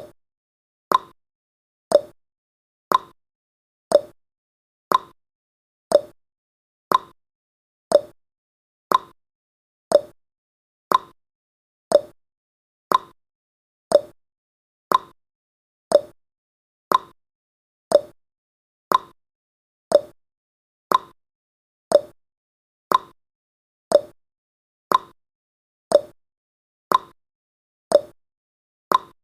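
Clock-tick sound effect, one sharp tick each second in a steady tick-tock rhythm, alternating a higher and a lower click, counting down the seconds of a countdown timer.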